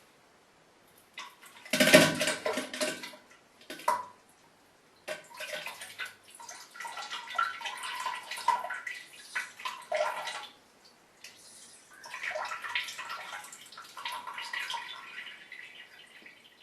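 Diarrhea sound effect: wet, spluttering bursts of liquid, in several irregular bouts with short pauses between. The loudest burst comes about two seconds in, and longer sputtering runs follow.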